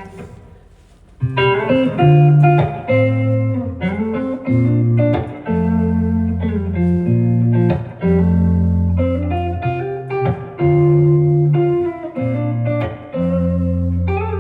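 A rock band playing a song's instrumental intro, with guitar chords over a bass line, starting about a second in.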